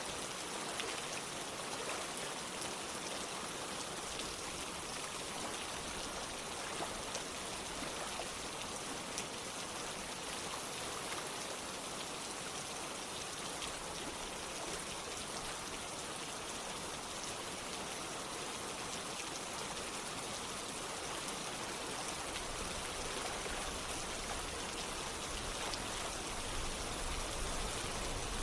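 Steady rain falling together with running water: a constant hiss dotted with small drop ticks. A deeper low rush of water grows in over the last few seconds.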